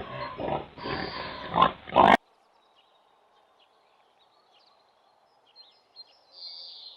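Pig grunting in a run of short, loud, rough calls that stop abruptly about two seconds in. After that there is only a faint background with a few faint chirps.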